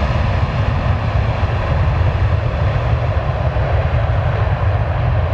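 Airbus A330 jet engines at takeoff: a steady, loud, low rumble.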